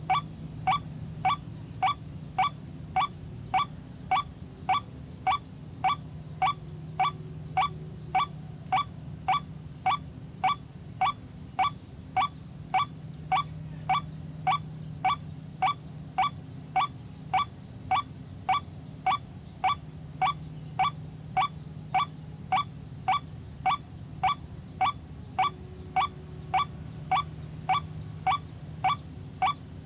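White-breasted waterhen (ruak-ruak) call, one short note repeated at a machine-even pace of about two a second, typical of a looped lure recording, over a low steady rumble.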